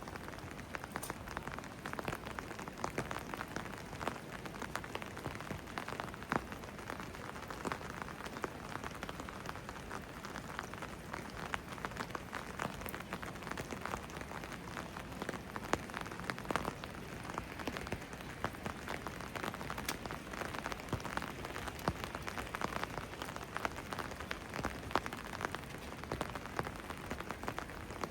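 Steady rain falling, with many individual drops striking nearby surfaces as sharp little ticks.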